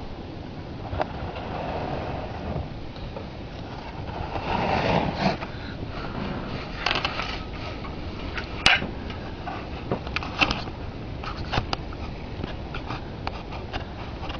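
Blizzard wind blowing steadily, with a stronger gust swelling about four to five seconds in, mixed with scattered clicks and scrapes of handling noise.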